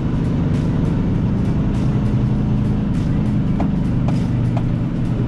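Semi-truck diesel engine running steadily, a constant low drone heard from inside the cab, with music playing over it.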